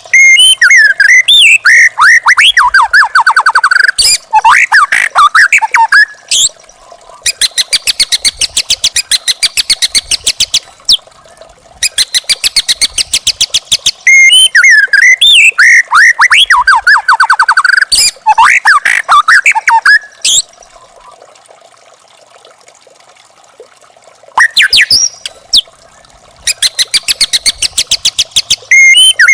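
White-rumped shama (murai batu), a young wild bird, singing loudly in bouts: very fast runs of repeated notes alternating with whistled phrases that slide up and down. The song breaks off for a few seconds past the middle, then resumes.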